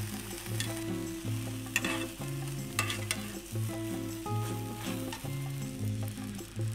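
Egg mixture sizzling in a frying pan as a Japanese rolled omelette (tamagoyaki) cooks, with a few sharp clicks and scrapes of a utensil working in the pan, over background music.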